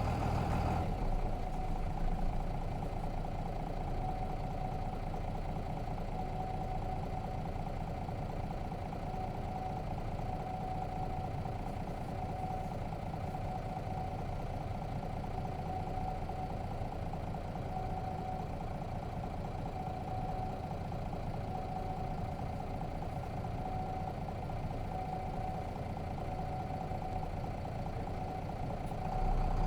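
Nissan Diesel FE6 inline-six diesel of a route bus idling steadily, heard from inside the cabin, with a steady hum and a constant mid-pitched drone. The engine note grows louder right at the end.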